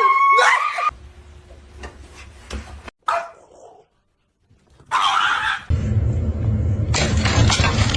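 A pet animal's short cry that bends in pitch about a second long at the start, then after a quiet gap a burst of noise and a steady loud noise that starts abruptly near the end.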